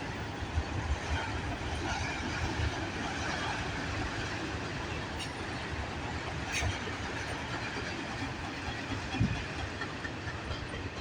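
A freight train of auto rack cars rolling past: a steady rumble and rattle of steel wheels on rail, with an occasional sharper click and a brief louder knock about nine seconds in.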